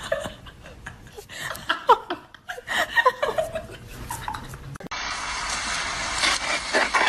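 People laughing and chuckling in short bursts, with a few clicks; about five seconds in it cuts abruptly to a steady rushing noise.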